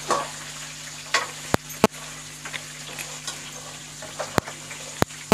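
Oil sizzling in a metal kadai as a spoon stirs a frying tempering of lentils, peanuts, cashews, chillies, curry leaves and ginger, with several sharp clinks of the spoon against the pan.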